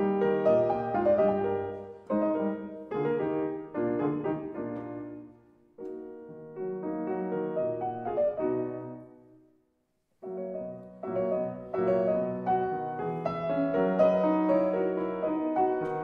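Background piano music, gentle phrases of notes with a brief pause of silence about two-thirds of the way in.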